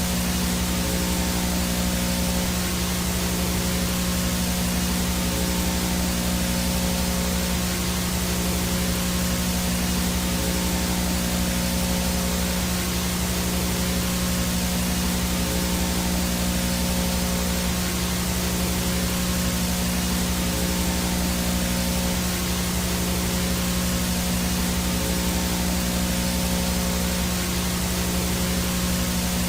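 Analog VHS static: a steady hiss of white noise with a low electrical hum under it and a faint high-pitched whine on top.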